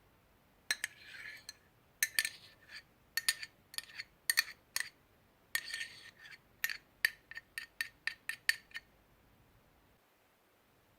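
A run of quick clinks and taps of a utensil against a hard container, each with a short ring, several dozen over about eight seconds, with brief scraping between some of them.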